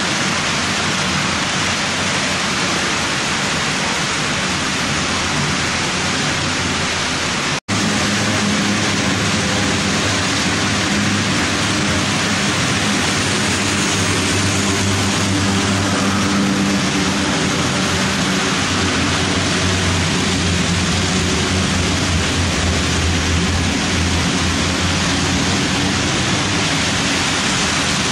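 HO-scale model freight train running on the layout: a steady rushing rumble of the wheels and locomotive motors, with a low hum. The sound drops out for an instant about a quarter of the way through, then comes back with the hum stronger.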